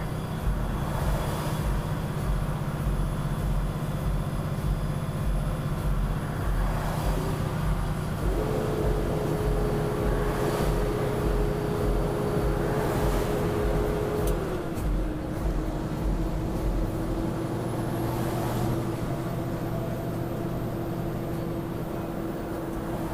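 Vehicle engine and road rumble heard from inside the cab on a steep downhill grade. A steady whine comes in about eight seconds in and drops a step in pitch about six seconds later.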